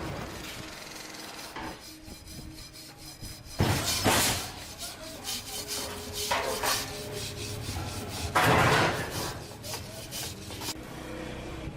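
Scraping or rasping strokes, louder ones about 4 s and 8.5 s in and a weaker one between, over a low steady background hum.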